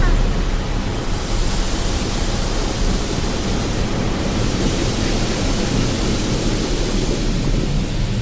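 Car wash water jets spraying over a car: a steady rushing hiss that grows stronger and brighter about a second in.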